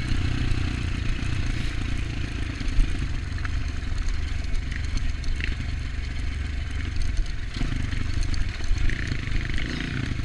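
Off-road dirt bike engine running steadily along a trail, with light rattle and clatter from the bike.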